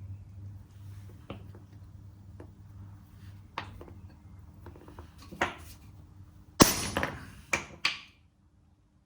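Heavy hammer striking a drive shaft yoke to drive out the universal joint bearing cups: a few light knocks, then four loud ringing metal blows about two thirds of the way in. A steady low hum runs underneath and stops just after the last blow.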